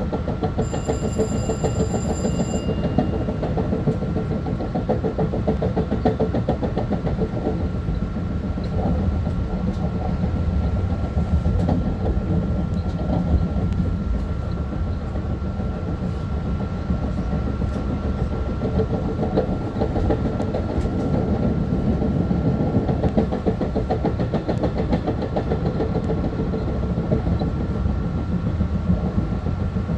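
Long Island Rail Road M3 electric train running along the track, heard from inside: a steady low rumble of wheels on rail with a thin steady whine. A brief high-pitched tone sounds about a second in.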